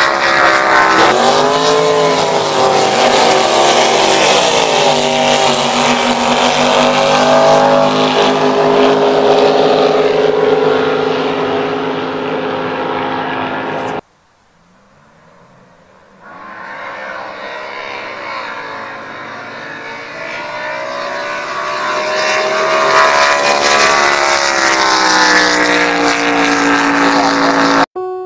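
Drag boat's 585 cubic-inch naturally aspirated big-block Chevrolet V8 with twin Dominator carburettors, running hard on a quarter-mile run, its pitch bending up and down as it passes. The sound cuts off suddenly about halfway, then a second run builds back up to full loudness and cuts off again near the end.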